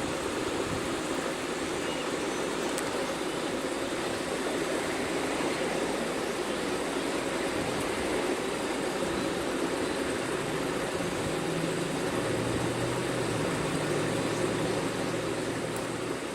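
Coleman heat pump running steadily with a constant airy whoosh, and a faint low hum joining in about ten seconds in.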